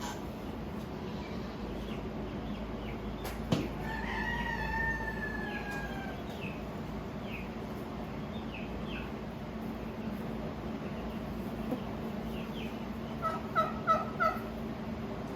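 Barnyard fowl calling: a long falling call about four seconds in, and a quick run of four short calls near the end. A steady low hum runs underneath.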